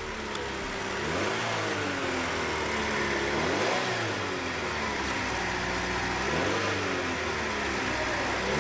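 DOHC 16-valve four-cylinder petrol engine running and being revved by hand at the throttle linkage, its pitch rising and falling back several times. This is the running check after an ignition-system fault repair.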